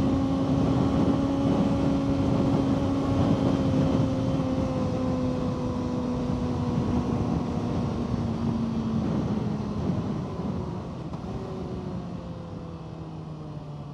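Motorcycle engine running steadily at speed under a constant rush of road noise. In the last few seconds the engine note drops gradually and the sound fades as the bike slows.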